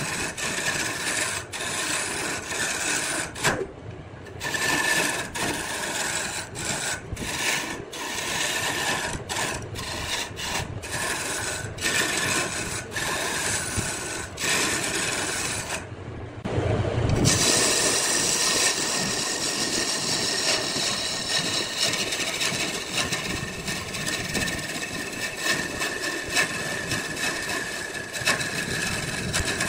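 Wood lathe turning: a tool scraping and rasping against spinning wood. There are brief breaks about four seconds and sixteen seconds in, and after that a steadier run with a faint whine.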